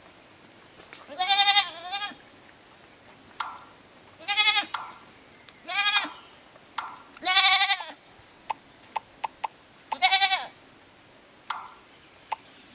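A goat bleating repeatedly: five loud, wavering bleats of half a second to a second each, with a few faint clicks between them.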